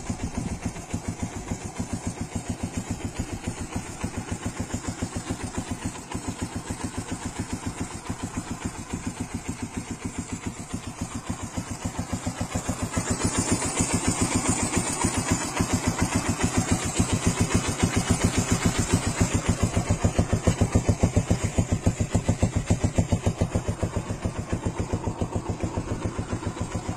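Kawasaki Binter Merzy (KZ200) single-cylinder four-stroke motorcycle engine with CDI ignition, idling in even, distinct firing pulses. About halfway through it is brought up to a higher, louder idle, easing slightly near the end.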